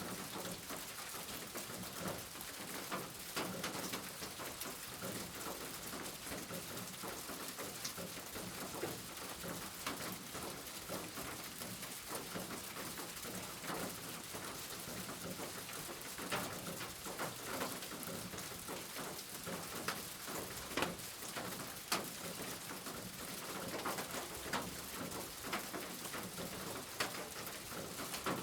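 Steady rain: a continuous hiss dotted throughout with individual drops and drips striking a surface.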